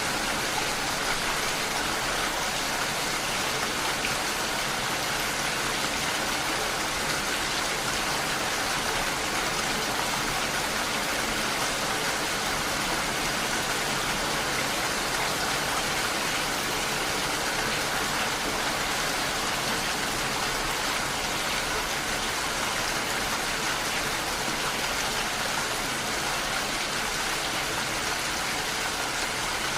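Steady rain, its drops striking window glass.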